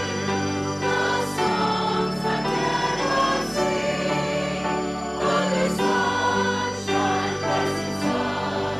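A church congregation singing a hymn together, in sustained chords.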